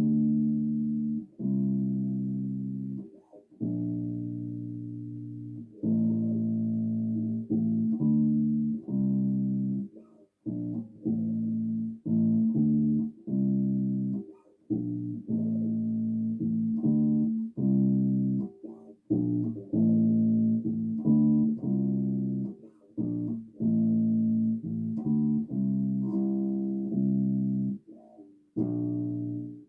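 Electric bass guitar playing a run of separate plucked notes, each ringing and decaying, with short gaps between phrases.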